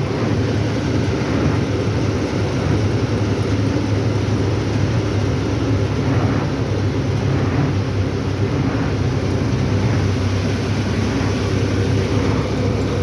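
Truck on the move: a steady low engine drone with road noise.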